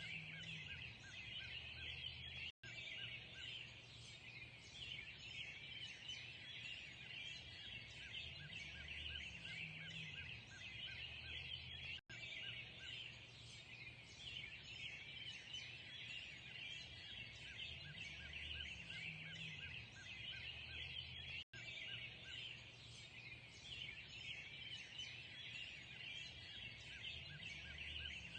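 A chorus of many birds chirping and singing at once in a dense, continuous twitter. The sound cuts out for an instant three times at even spacing.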